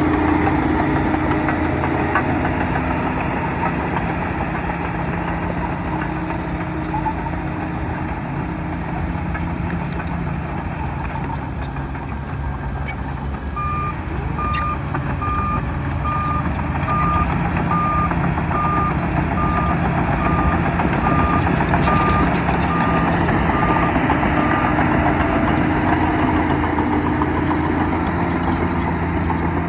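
Bulldozer diesel engine running steadily, with its reverse alarm beeping at an even pace, about one and a half beeps a second, for roughly ten seconds in the middle as the machine backs up.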